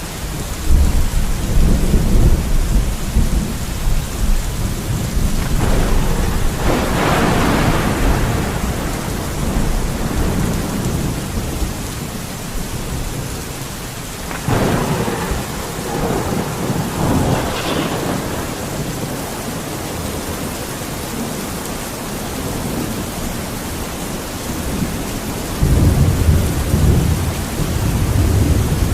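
Thunderstorm: steady heavy rain with rolling thunder, a deep rumble in the first few seconds, sharper crackling peals about a quarter and half way through, and another low rumble near the end.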